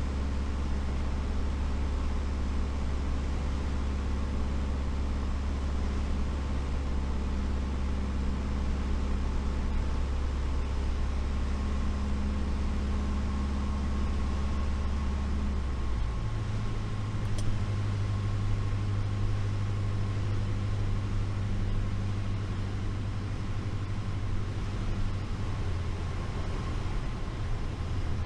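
Light aircraft's piston engine and propeller droning steadily in the cockpit, with a steady rush of airflow over it. About sixteen seconds in the engine note steps up in pitch, and it holds there.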